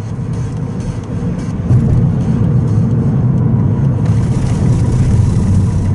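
Exhaust of an 18-series Toyota Crown Majesta's V8 through a straight-through system with a ZEGSPEED Margay rear muffler: a loud, steady low drone that gets louder about two seconds in.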